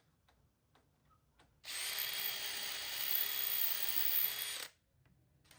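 Power drill running at a steady speed for about three seconds, starting and stopping abruptly.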